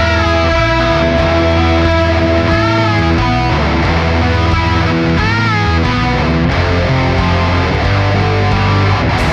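Instrumental rock track: an electric guitar plays a riff with sustained notes that bend up and back down every couple of seconds, over bass guitar.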